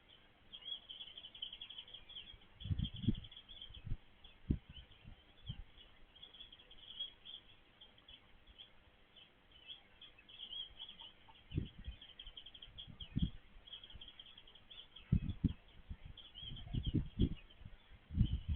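Small birds chirping in rapid high twittering runs, with scattered low thumps and knocks that are louder than the calls.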